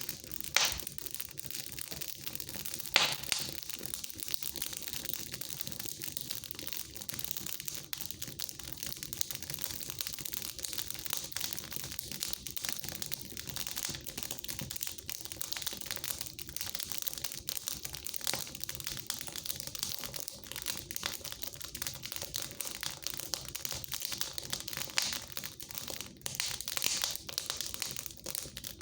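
Wood fire crackling in a fireplace: a dense, continuous run of small crackles with a few louder sharp pops, the loudest two near the start.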